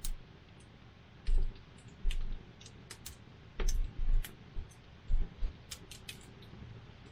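Wood campfire crackling, with irregular sharp pops and snaps, some of them louder and heavier, over a low steady hiss.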